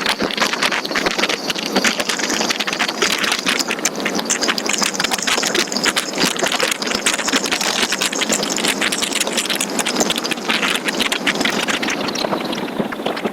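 A motorcycle riding along, with wind buffeting the microphone and engine and road noise underneath.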